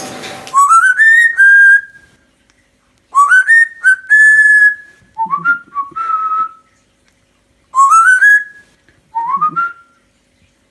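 Clear whistling in a series of short phrases, each climbing in quick steps to a held note, with brief silences between them.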